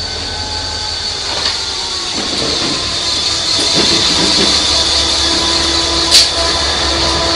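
Diesel freight locomotives pass at close range and low speed. The engines' low rumble grows louder as the lead unit comes by, under a steady high-pitched ring from the wheels on the rail. About six seconds in there is a single sharp clank.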